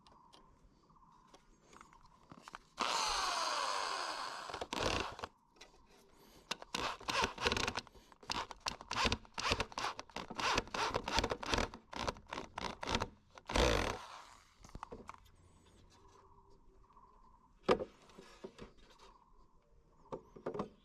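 Woodworking on beehive timber. About three seconds in, a power tool runs for about two seconds with a falling tone. It is followed by a run of rapid short scraping strokes, another brief burst, and scattered knocks.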